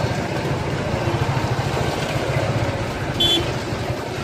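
A motorcycle engine runs at idle with a steady low rumble amid street traffic. About three seconds in, a brief high-pitched beep cuts through.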